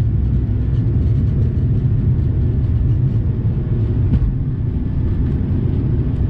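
Steady low rumble of an Airbus A220-300's cabin in flight: engine and airflow noise heard from a passenger seat, with a faint steady hum above it.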